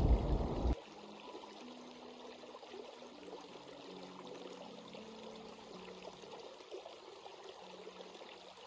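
A loud low rumble cuts off abruptly less than a second in. After it, a stream runs faintly and steadily.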